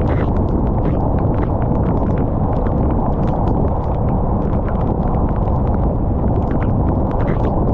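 Rain falling, with many sharp, irregular drop impacts over a loud, steady low rumble.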